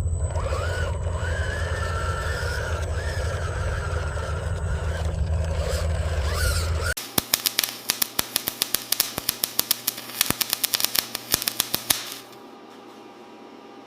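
A toy RC construction truck's small electric motor and gearbox running with a low hum and a wavering whine. After an abrupt cut, a rapid irregular run of clicks and rattles for about five seconds, followed by a quieter steady hum.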